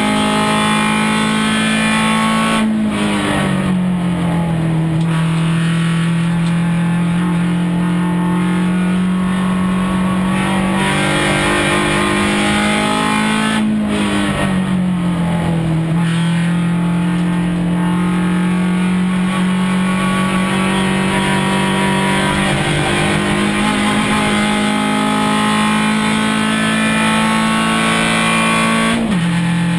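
Suzuki Swift Cup race car's four-cylinder engine pulling hard, heard from inside the cabin. The pitch climbs slowly, then drops sharply with a brief break at each upshift: about three seconds in, about fourteen seconds in, and near the end.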